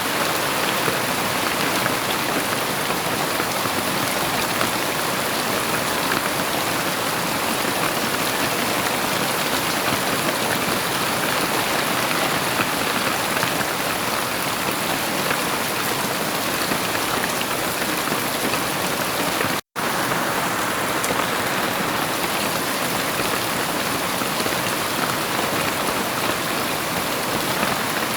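Heavy rain falling steadily, a dense even hiss of drops on surfaces. It cuts out for an instant about two-thirds of the way in, then resumes unchanged.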